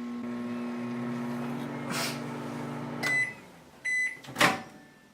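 Microwave oven running with a steady electrical hum that stops about three seconds in, followed by two beeps signalling the end of the cycle and a sharp clunk near the end.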